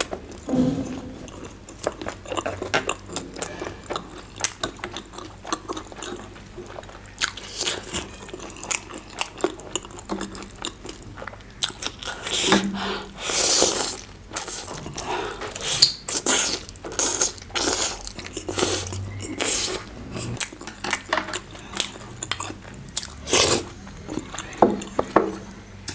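A person chewing and biting food close to the microphone, with crunchy bites coming in irregular bursts and a louder run of them about halfway through.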